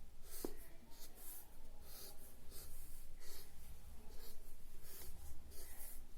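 Brown sketch pen drawing on paper: a run of short scratchy strokes, about two a second, as branches are drawn and shaded in, with a single click about half a second in.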